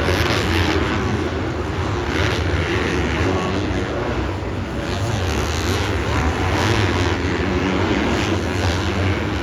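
Several dirt-bike engines racing together, blending into a loud, steady drone with rises and falls in revs.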